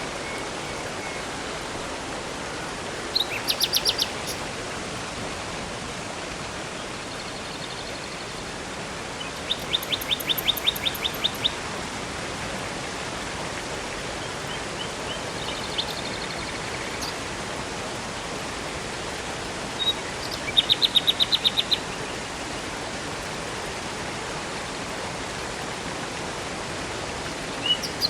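Steady rush of flowing river water, with a songbird singing short, rapid trills of quick repeated high notes about four times, several seconds apart, and a few fainter high whistles between them.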